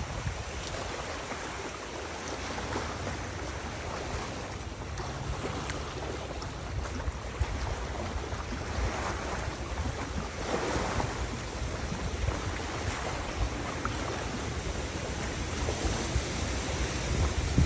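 Wind gusting over the microphone: a steady rushing noise with a fluttering low rumble, swelling in places.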